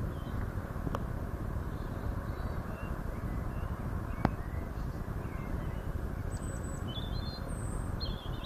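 Small birds chirping faintly over a steady low rumble of outdoor noise, the chirps coming more often in the last couple of seconds, with a single sharp click about four seconds in.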